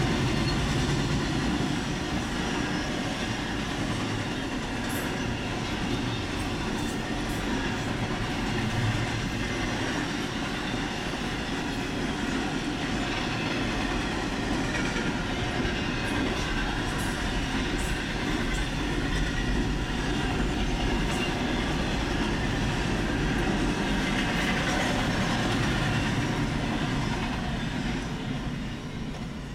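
Intermodal freight train cars, double-stack container well cars and trailer cars, rolling past: a steady noise of steel wheels on rail with scattered faint clicks, fading near the end.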